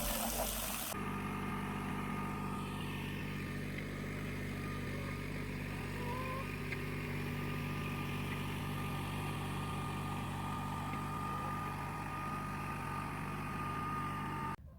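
Kubota tractor's diesel engine running at a steady idle, with an even, unchanging hum.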